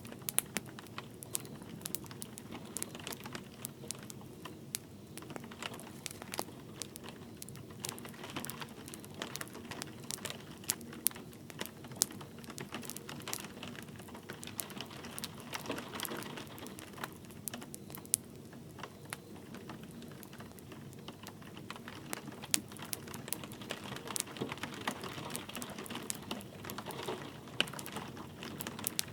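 Wood fire crackling with many irregular sharp pops and snaps, a few louder ones, over a steady soft hiss of light rain.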